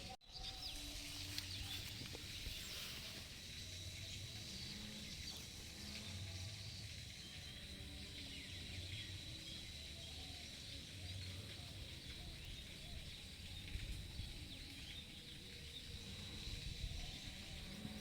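Rural outdoor ambience: a steady high-pitched insect call with faint, scattered bird chirps.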